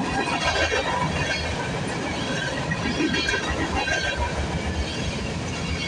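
Freight train cars rolling past at speed: a steady rumble and clatter of steel wheels on the rails.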